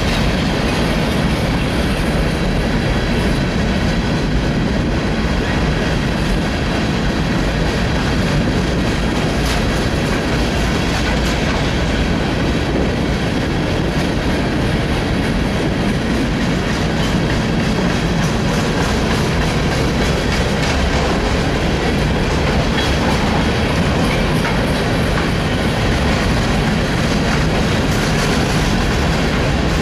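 Rock train's aggregate hopper cars rolling past steadily: a continuous rumble of steel wheels on rail, with a rapid clickety-clack as the wheels cross the rail joints.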